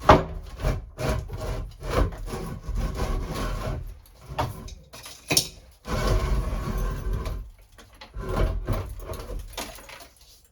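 Wooden sink vanity and plywood being pried and shifted: repeated sharp knocks and clatter, with a couple of longer stretches of scraping and rubbing in the second half.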